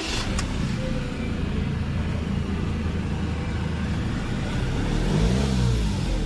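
Ford Ranger XLT engine running steadily after starting, now that its burnt ECU has been replaced with a newly programmed one. About five seconds in there is a brief rise and fall in engine pitch, like a light blip of the throttle.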